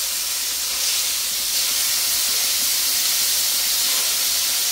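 Hamburger patties sizzling in their grease on a Blackstone flat-top griddle: a steady hiss that swells slightly about a second and a half in.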